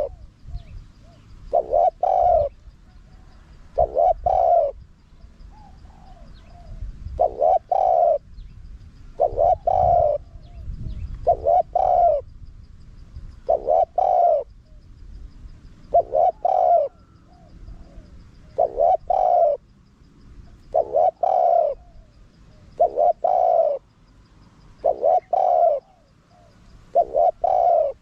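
Spotted dove cooing: a short note followed by a drawn-out coo, repeated about every two seconds.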